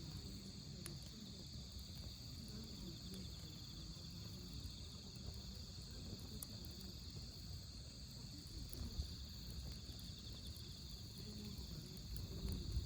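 Autumn insects, crickets, trilling steadily in high pulsing tones, with a few faint crackles from a wood campfire and a low rumble underneath.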